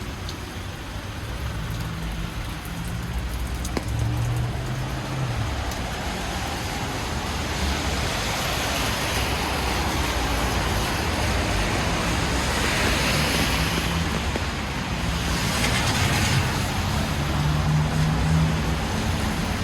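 Road traffic on a wet city avenue: cars passing one after another, the hiss of tyres on wet asphalt swelling and fading with each, over a low engine hum.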